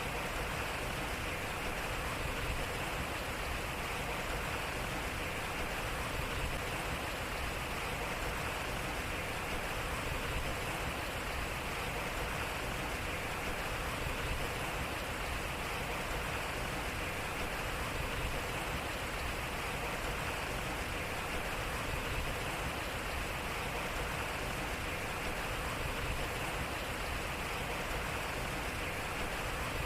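Water flowing and splashing steadily at a turning waterwheel.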